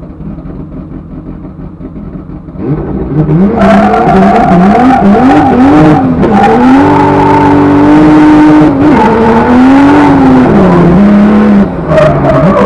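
Turbocharged BMW E30 drift car's engine heard from inside the stripped cabin. It runs low for a couple of seconds, then is revved hard, the pitch climbing and falling again and again. The revs are held steady for a moment, then drop and climb once more near the end. A few sharp cracks cut through, typical of the car's anti-lag system.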